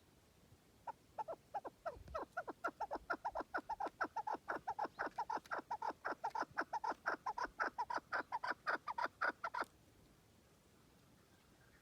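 Chukar partridge calling: a long run of short chuck notes, each dropping slightly in pitch, that starts spaced out, quickens to about five a second, and stops abruptly near the end.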